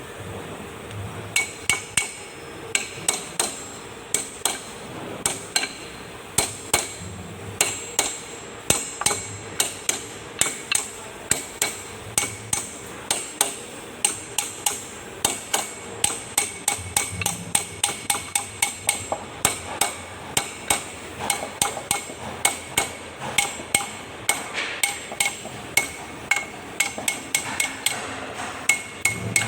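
A hammer striking metal over and over, about two to three blows a second, each with a short metallic ring.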